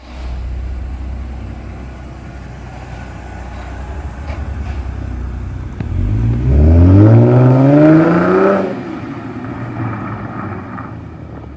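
Mercedes-Benz V6 engine running low and steady, then about six seconds in revving hard, its pitch climbing for over two seconds before the throttle is let off and the note drops back.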